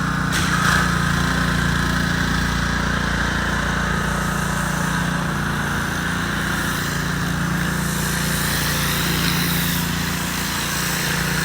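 Gas-powered pressure washer engine running steadily at a constant speed, with a steady hiss above the engine hum.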